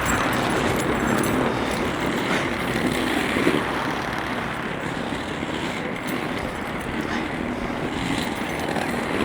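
Skate wheels rolling steadily over city pavement, a continuous rough rumble.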